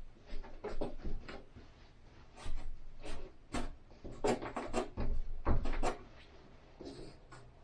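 Irregular knocks, clicks and rubbing from hands-on work at a window frame, about a dozen separate sharp strikes spread unevenly through the stretch.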